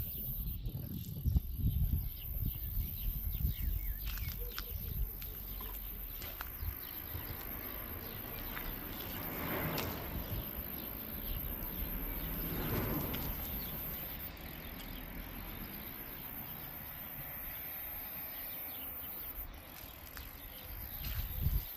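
Outdoor background noise with scattered faint clicks and two brief swells of noise, about ten and thirteen seconds in.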